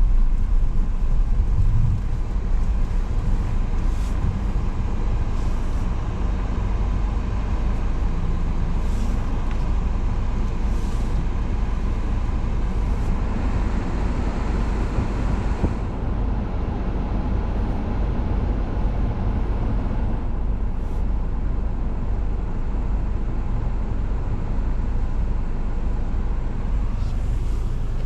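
A car driving: a steady low rumble of engine and tyre noise, with a few faint, brief hisses.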